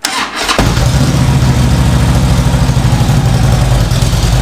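2009 Harley-Davidson Road Glide V-twin cranked by its rebuilt electric starter; the new starter clutch engages and the engine catches within about half a second, then idles steadily.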